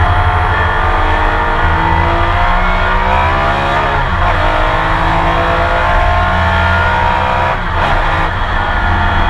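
Porsche 911 race car's flat-six engine heard onboard under racing load, its revs climbing and falling through the gears. The pitch drops sharply twice, about four seconds in and near the end, as the driver shifts or lifts.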